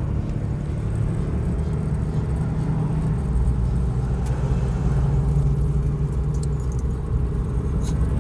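Diesel truck driving along, its engine running with a steady low drone and rumble of road noise. A few light clicks or rattles sound about four seconds in and near the end.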